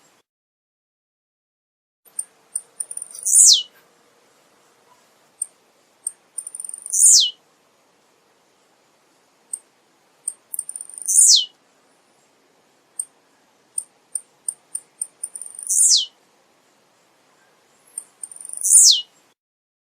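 Male blue-black grassquit (tiziu) singing, five times. Each phrase is a few short high chips followed by a quick note that sweeps sharply downward, repeated every three to four seconds.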